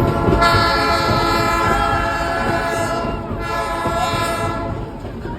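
Train horn sounding two blasts, a long one of about two and a half seconds and then a shorter one, over the low rumble of the train running.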